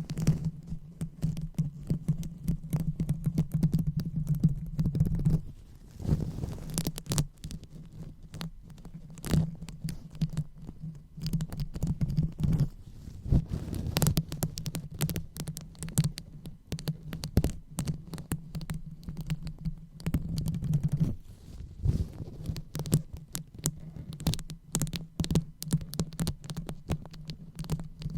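Fingers rubbing and scratching directly on a microphone for ASMR brain-massage sounds: dense, irregular crackling and scraping over a steady low hum.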